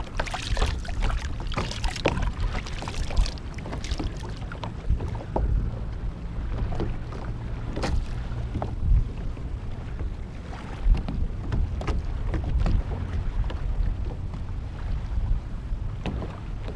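Wind buffeting the microphone out on the water in a kayak, a steady low rumble with occasional sharp knocks.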